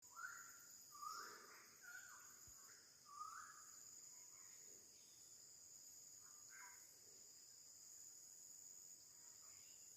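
Faint tropical rainforest ambience: insects shrilling steadily on several high pitches, with a bird giving four short calls in the first few seconds and a few fainter calls later.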